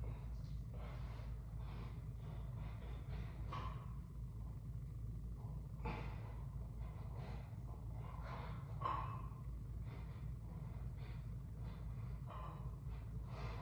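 A man breathing hard during weight-training sets, with a forceful exhale every two to three seconds over a steady low hum.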